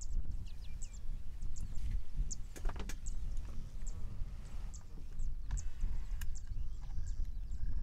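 Birds calling in short, high chirps repeated every half second or so, over a steady low rumble, with a brief rasping call about three seconds in.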